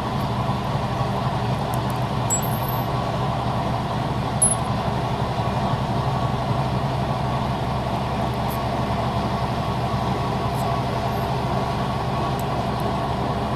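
Air compressor running steadily with an even, constant hum; it keeps running and does not cut off.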